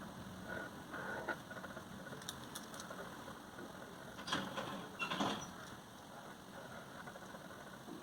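Light handling noises: a few brief rustles and taps over a low steady hiss, the two clearest about four and five seconds in.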